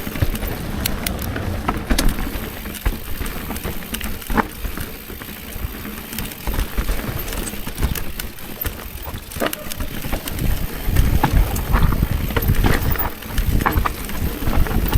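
Riding downhill on a bike: wind buffeting the camera's microphone as a low, fluctuating rumble, with tyres over rough ground and scattered clicks and rattles from the bike. The rumble grows louder near the end.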